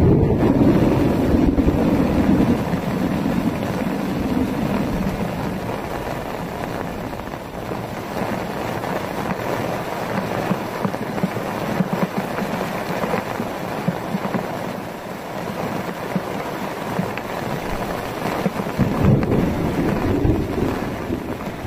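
Heavy rain pouring down in a gusty storm, with wind buffeting the microphone. Low rumbles swell at the start and again near the end.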